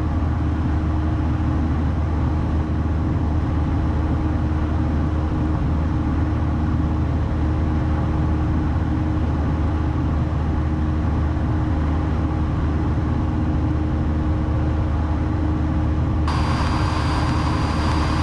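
Cessna 172's four-cylinder Lycoming engine and propeller droning steadily at cruise, heard inside the cabin. A hiss joins near the end.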